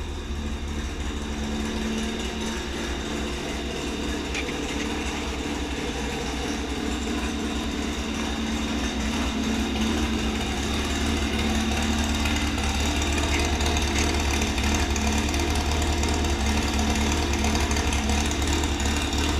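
VW Brasilia's 2300 cc engine with a Stinger exhaust running steadily with a low, even rumble, growing a little louder about ten seconds in.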